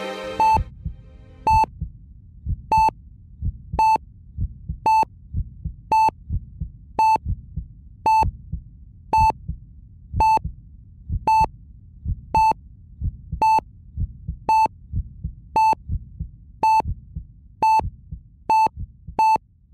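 Bedside patient monitor beeping about once a second, each a short high beep, over a low throbbing heartbeat. The beeps come a little faster near the end.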